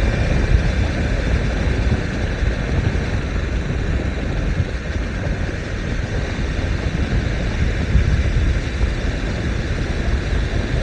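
Steady wind rush and running noise of a BMW S1000R motorcycle being ridden, with its inline-four engine beneath the wind.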